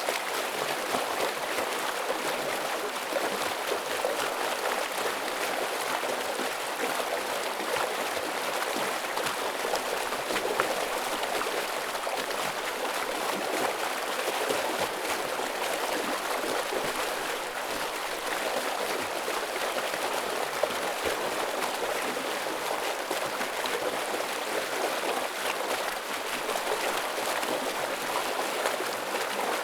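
Heavy stream water flowing, an even, unbroken rush with no pauses.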